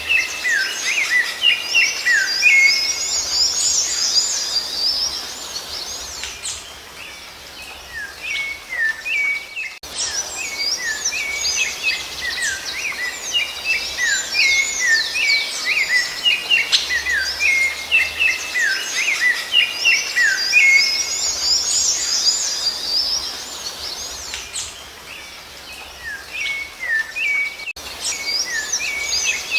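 Songbirds singing a fast, busy twittering of short chirps and hooked whistles, thinning into brief lulls twice before picking up again.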